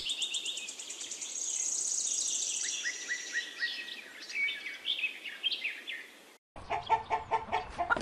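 Small songbirds chirping, with a fast, high trill about a second in that lasts a second and a half. The birdsong cuts off about six seconds in and a rooster starts clucking.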